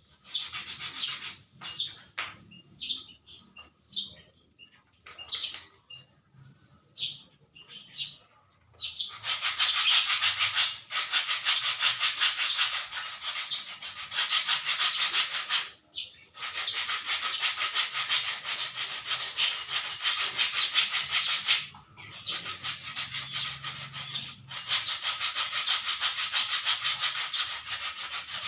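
Hand sanding: short separate rubbing strokes at first, then long runs of fast, even back-and-forth strokes, broken by a few short pauses.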